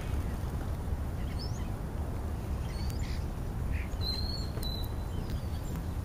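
Birds calling faintly: a few short high chirps and a thin whistle about 4 seconds in, over a low steady rumble.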